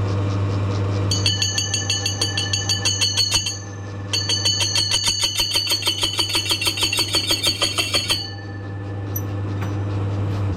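Plasma cutter scoring a line in steel plate: a steady hum from the machine, with two spells of rapid, high-pitched pulsing from the cutting arc, about five pulses a second. The hum stops at the end.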